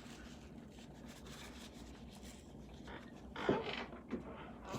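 Faint rubbing and handling noises over a low hum, with a brief, louder sound about three and a half seconds in.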